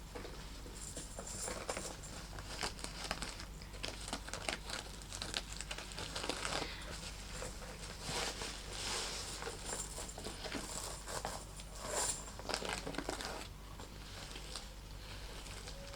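Fingers scratching, tapping and handling a small snake-leather bag: irregular crinkling and scraping with many light clicks, a little denser around the middle.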